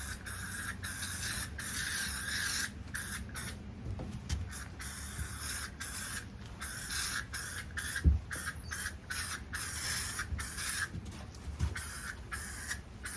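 Tick repellent spray hissing in many short bursts, one after another with brief gaps, as it is sprayed over legs and feet; a single thump about eight seconds in.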